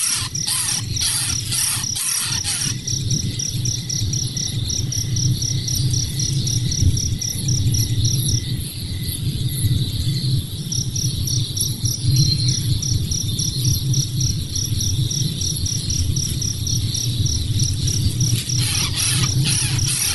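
An insect, sounding like a cricket, chirping in a fast, even train of high-pitched pulses that pauses briefly midway, over a steady low rumble.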